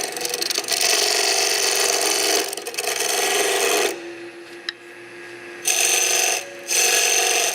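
A turning tool cutting a spinning pine spindle on a wood lathe: a long scraping cut for about four seconds, a pause where only the lathe's steady hum is heard, then two shorter cuts near the end.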